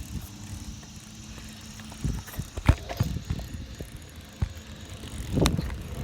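A bicycle being ridden over rough ground: irregular rattles and knocks over a low rumble, with a sharp knock a little under three seconds in and a heavier jolt near the end.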